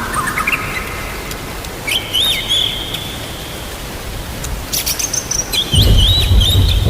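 White-rumped shama (murai batu) singing short whistled, swooping phrases over the steady hiss of rain, with a sharp crack about two-thirds of the way in and a loud, low thunder rumble near the end.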